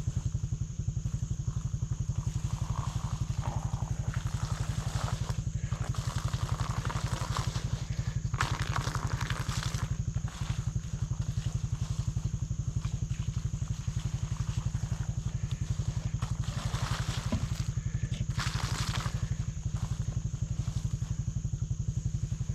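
ATV engine running steadily at idle, a fast even low beat at an unchanging level. Twice, brief scuffing noises sound over it.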